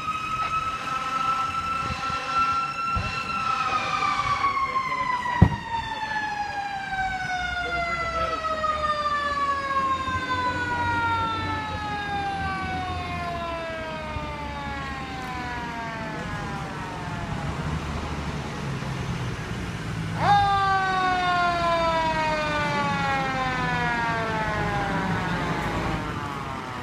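Fire truck's mechanical siren: a held wail that starts winding down about three seconds in, its pitch falling slowly for over ten seconds, then is briefly wound up again about twenty seconds in and coasts down once more, over the low rumble of the truck's engine. A single sharp knock about five seconds in.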